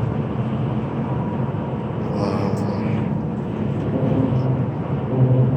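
Steady engine and road noise heard from inside a moving intercity bus, with faint voices near the end.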